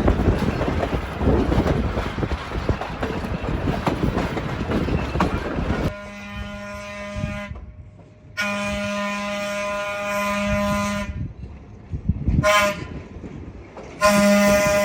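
Train horn sounding the grade-crossing signal: a long blast, a longer blast, a short toot and a final long blast. Before the horn there is a few seconds of loud, even rumbling noise, which cuts off suddenly.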